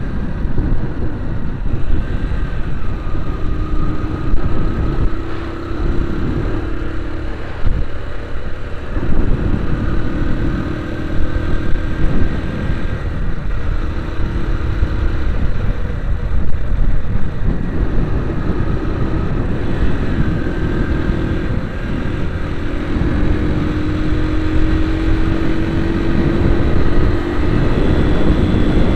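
A motor vehicle driving, its engine running with a note that rises and falls over a steady, heavy low rumble.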